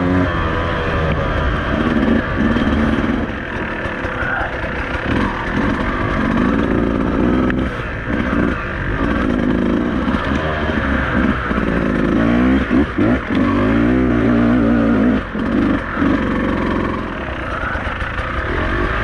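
Beta 200RR two-stroke single-cylinder enduro motorcycle engine revving up and down as the throttle is opened and closed, with a few knocks from the bike over rough ground.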